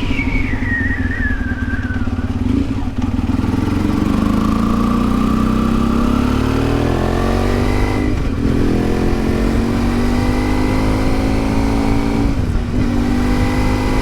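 The parallel-twin engine of a 1992 Yamaha XTZ 750 Super Ténéré pulling under way, its pitch rising steadily for a few seconds and then dropping briefly at two gear changes, about eight and twelve seconds in.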